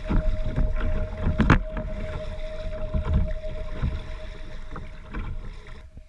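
Kayak on fast creek water: rushing water and wind buffeting the microphone, with a faint steady tone underneath and a sharp knock about a second and a half in. The sound fades toward the end.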